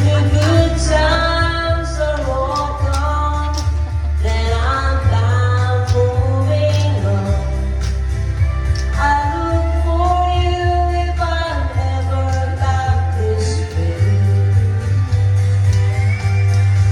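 A woman singing a slow country-folk song, holding long notes, over instrumental accompaniment with a strong bass line.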